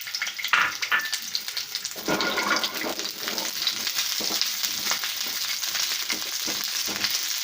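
Diced onions sizzling and crackling in a little hot oil in a nonstick pan, with a few knocks in the first two seconds.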